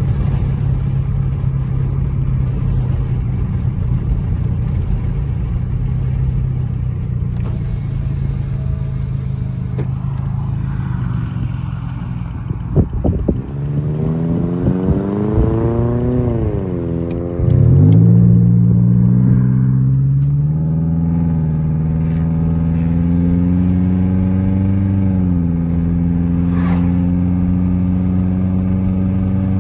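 Honda Accord's engine heard from inside the cabin: a steady cruising drone, then after slowing for a turn it revs up, drops in pitch at a gear change about 16 seconds in, and climbs again before settling back into a steady drone.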